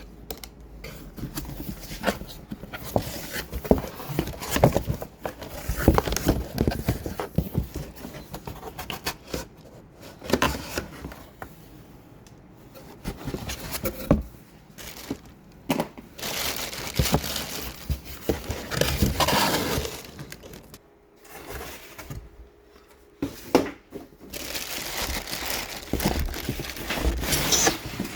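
Unpacking and handling: packaging crinkling and rustling, with irregular knocks and clicks of plastic parts being handled.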